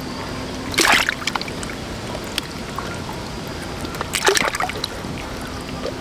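Water splashing twice, once about a second in and again about four seconds in, over a steady background hiss.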